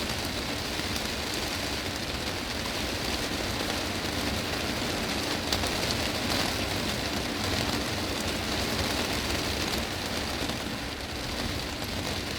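Heavy rain falling on a greenhouse's glass roof: a steady, dense patter of many drops on the glass.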